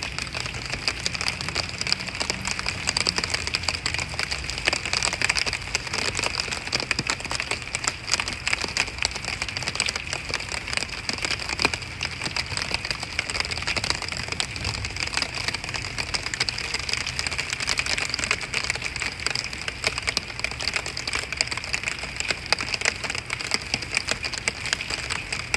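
Steady rain falling, a dense patter of countless drops striking a hard surface.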